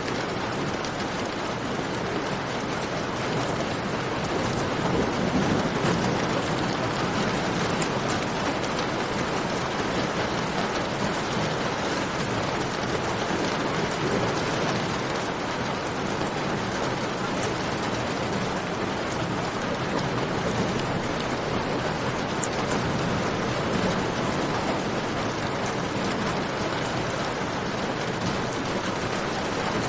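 Steady rain falling in a cave, with the occasional sharp pop of a crackling campfire, two of them standing out, about 8 seconds in and again near 22 seconds.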